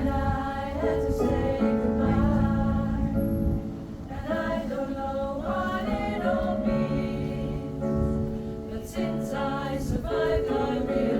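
Pop choir singing.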